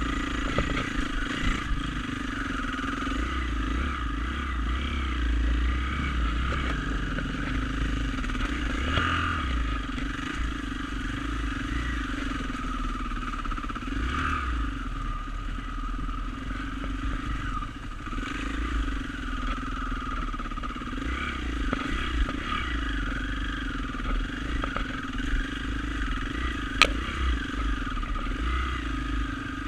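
Dirt bike engine running under way, its pitch rising and falling with the throttle, over a low rumble, with a single sharp knock near the end.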